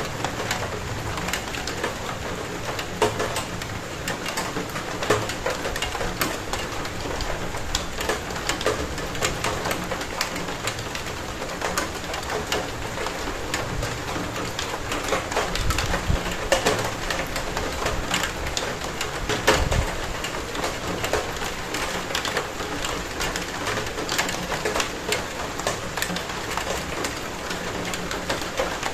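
Steady rain falling on a surface, a continuous hiss dotted with many individual drop ticks and splashes, with a couple of brief low rumbles a little past the middle.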